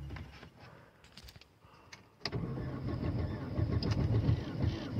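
Opel car engine cold-started in about −31 °C frost, heard from inside the cabin: a low hum fades, a few faint clicks follow, then a little over two seconds in a sharp click comes as the engine catches and keeps running, rough and low.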